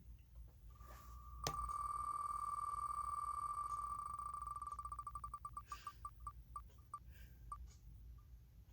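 Letter-picker spinning wheel ticking: one pitch, ticks so fast at first that they run together into a steady tone, then slowing into separate ticks further and further apart as the wheel winds down to a stop.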